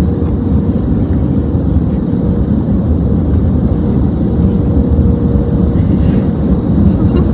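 Automatic car wash heard from inside the car's cabin: a steady, loud, low rumble of machinery and water on the car, with a faint steady hum over it.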